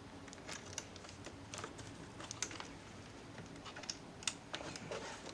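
Faint, irregular clicks and taps of small laptop parts, plastic and a metal screw, being handled and fiddled with, with a slightly louder click about four seconds in.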